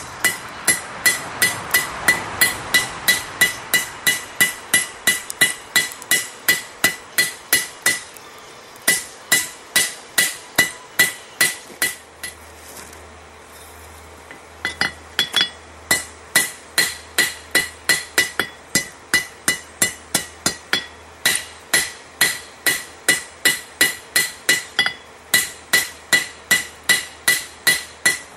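Blacksmith's hand hammer forging a railroad spike on an anvil: steady ringing strikes, about two and a half a second, with two short pauses.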